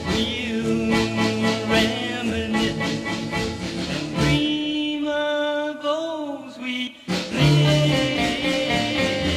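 A 1960 pop ballad song: a male voice singing over a band with a steady beat. Around the middle comes a long held note with vibrato, then a short break just before seven seconds, and the band comes back in full.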